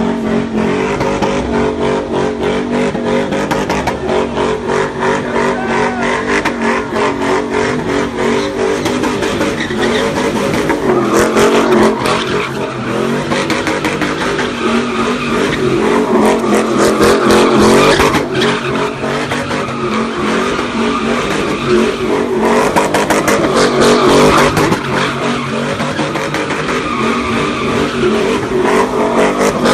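Car engine held at high revs, its pitch wavering up and down, with tires squealing continuously as the car spins donuts.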